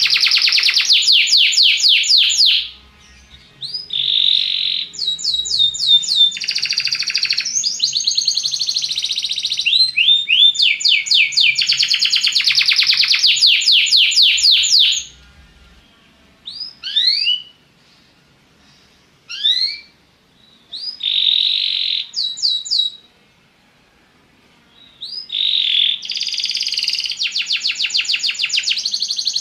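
Belgian canary singing: long phrases of fast trills made of rapidly repeated high notes. Short pauses and a few single rising chirps fall between the phrases, mostly in the middle stretch.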